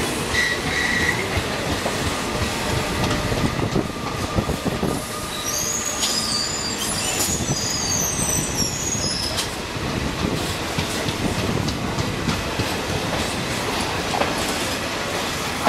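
Train passing at speed: a steady loud rumble and rattle of wheels on the track, with a high squeal of wheels from about five to nine seconds in.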